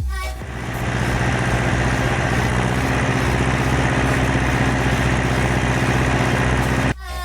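Ursus C-360 tractor's four-cylinder diesel engine running at a steady, unchanging pitch, cutting off abruptly near the end.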